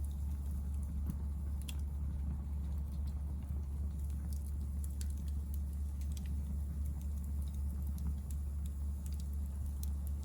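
Hardwood firewood burning and crackling, with scattered sharp pops over a steady low rumble.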